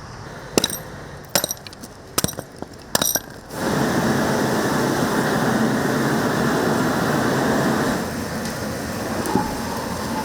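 A few sharp clinks, then about three and a half seconds in a loud, steady hiss of chicken cooking over high flame in a cauldron-lid pan.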